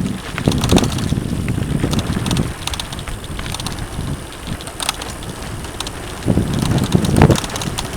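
Mountain bike riding over a dirt trail: wind buffeting the microphone and tyres rumbling over the ground, with knocks and rattles as the bike jolts over bumps, heaviest six to seven seconds in.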